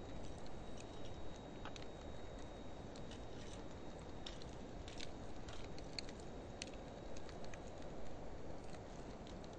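Wood fire of driftwood and dry hardwood burning: a steady low rush of flames with many scattered sharp crackles and pops, slowed to half speed.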